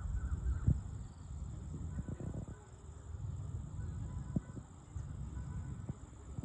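Steady high-pitched insect trilling, over a louder low rumble with a few short knocks.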